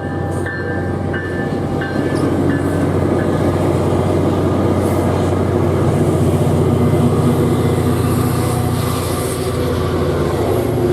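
Tri-Rail commuter train passing over a road grade crossing: the steady loud rumble of the diesel locomotive and coaches rolling by. A crossing bell dings about twice a second during the first few seconds.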